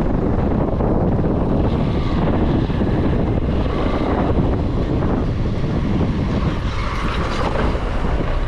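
Motorcycle under way: a steady, loud rumble of engine and road noise.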